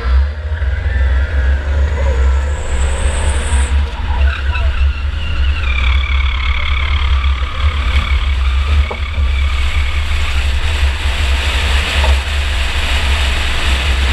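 Onboard sound of a 2004 Chevy Impala enduro race car at speed: its engine running hard with tyres skidding and sliding, over a heavy, steady low rumble. A wavering high whine comes in about six seconds in.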